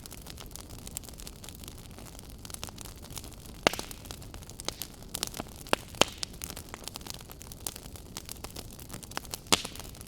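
Wood fire burning in a fireplace: a steady low hiss with irregular crackles and sharp pops, the loudest about a third of the way in, midway and near the end.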